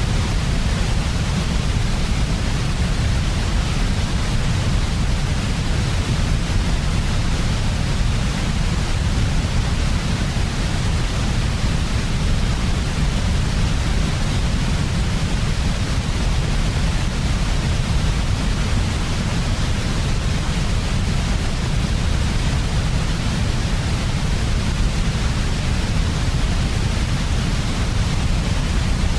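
Steady, unchanging generated white noise, weighted towards a deep low rumble with a fainter hiss above it.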